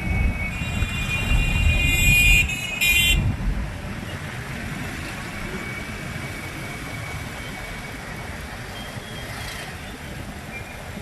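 Street traffic heard from a moving bike: vehicle horns honking in a long blare and a short toot in the first three seconds over engine and road rumble, which then settles to a steady, quieter traffic rumble.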